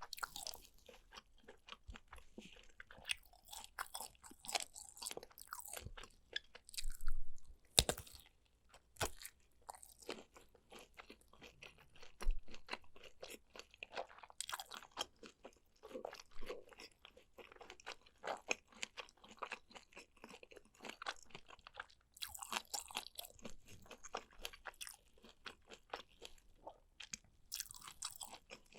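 Close-miked chewing and crunching as someone eats sea grapes and kielbasa sausage: a dense run of small crackling bites, with a louder bite about seven seconds in.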